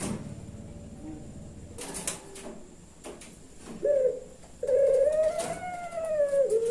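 Puter pelung dove cooing: a short coo about four seconds in, then one long drawn-out coo that rises slightly and falls away at the end. A few sharp clicks come before it, in the first two seconds.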